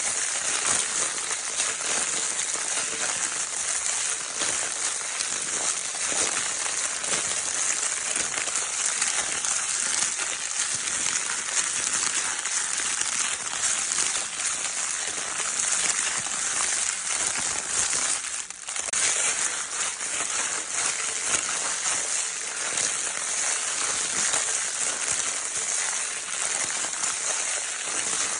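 Crinkle paper of a baby's crinkle toy being crumpled and rustled continuously, a dense crackling with a brief pause about two thirds of the way through.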